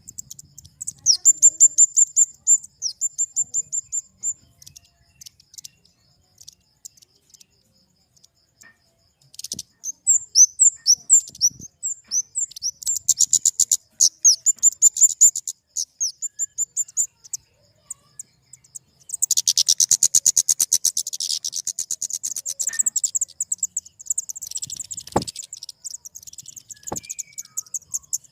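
Flowerpecker (kemade) calling: rapid series of high, thin chipping notes in repeated bursts, denser and overlapping in the last third, with two sharp clicks near the end.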